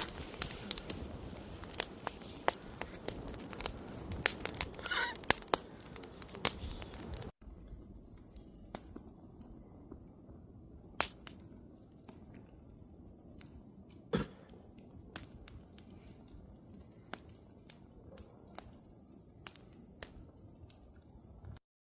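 Wood campfire crackling, with sharp pops scattered throughout. About seven seconds in it turns quieter, with fewer, fainter pops, and it cuts off just before the end.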